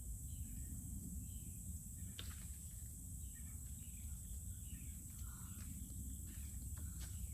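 Quiet outdoor ambience between chainsaw runs: a low rumble, a steady high-pitched tone, faint bird chirps and a few light clicks.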